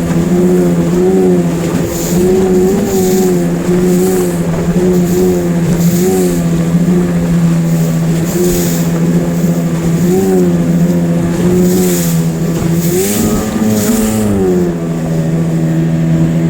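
9.9 hp outboard motor running hard under way through river rapids, its revs wavering up and down as the boat rides the waves, with a brief rise and fall in pitch near the end. Short hissing splashes of water come through again and again over the engine.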